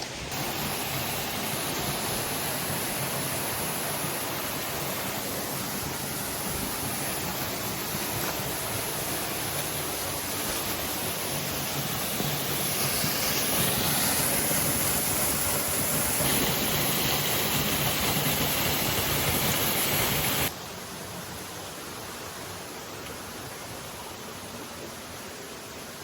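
Water rushing over a small creek waterfall, a steady hiss. It drops suddenly to a quieter level about twenty seconds in.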